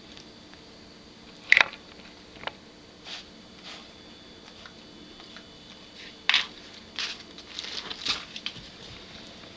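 Puppy playing with a toy: scattered taps, rustles and chewing noises, the sharpest about a second and a half in and a busier run of them from about six to eight seconds in.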